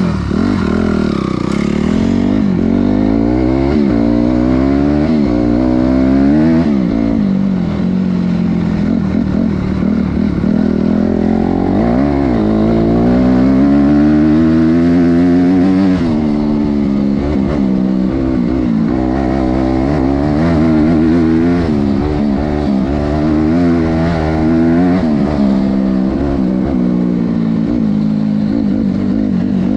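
Honda CRF250R dirt bike's single-cylinder four-stroke engine revving hard, its pitch climbing and dropping back again and again.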